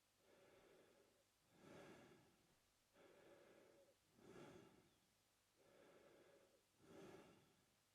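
A man breathing slowly and steadily through his mouth, in and out, about three full breaths, each softer breath followed by a louder, airier one.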